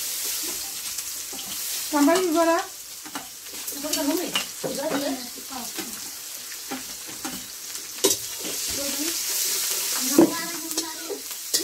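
Food sizzling in hot oil in a metal wok over a wood fire while it is stirred with a spatula, with a couple of sharp clinks of the spatula on the pan. A few short voice-like calls sound in the background, the loudest about two seconds in.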